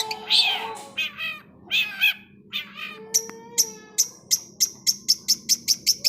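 Long-tailed shrike (cendet) singing a varied, mimicking song: harsh, cat-like gliding notes, then from about halfway a rapid run of short high notes that speeds up.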